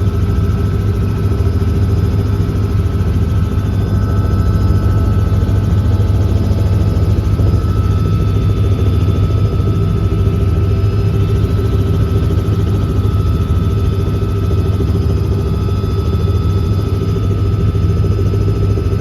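Tour helicopter's engine and rotor running steadily: a constant low drone with a steady whine over it.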